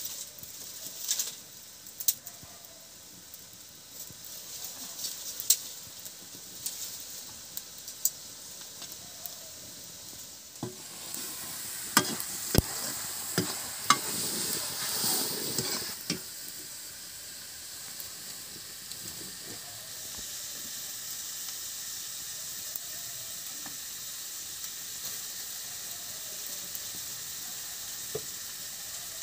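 Food sizzling as it fries in an iron kadai (wok) over a wood fire. About halfway through, a metal ladle stirs it, clanking and scraping against the pan a few times, and the sizzling grows louder. Scattered sharp clicks come in the first few seconds.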